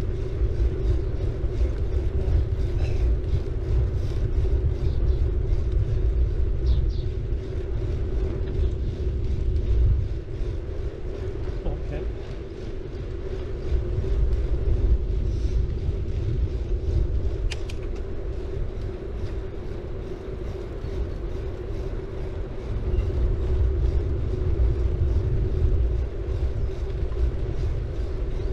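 City bike rolling along the road, a steady low rumble of tyres and wind on the helmet-style action camera's microphone with a constant mid-pitched hum, easing slightly twice.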